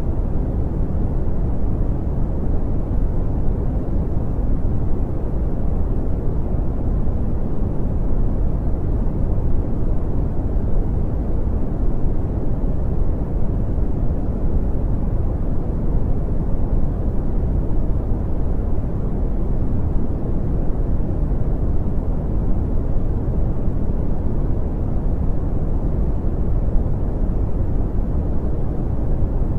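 Brown noise: a steady, even low rumble with no changes, its energy strongest in the bass and fading out toward the treble.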